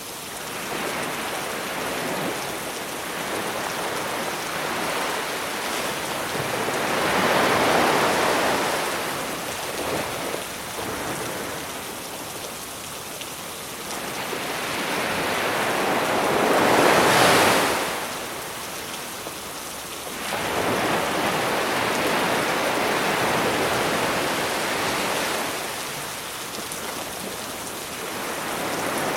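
Sea waves washing onto the beach under a steady hiss of rain. One wave surges about a quarter of the way in and a louder one a little past the middle, with smaller swells after.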